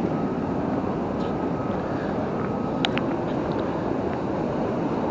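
Steady roar of rushing water from a waterfall and river, with one small click about three seconds in.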